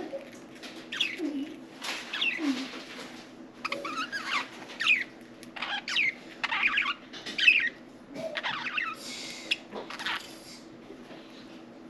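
Budgerigars chirping: a run of short, quick calls that sweep up and down in pitch, stopping near the end, over a steady low hum.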